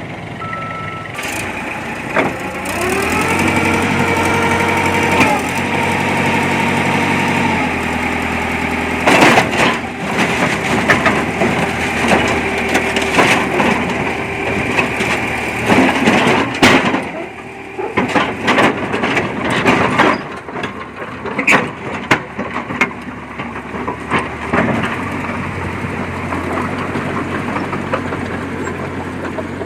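Diesel engine of a small crawler bulldozer revving up about three seconds in and holding under load, then working on with many sharp metal clanks and knocks.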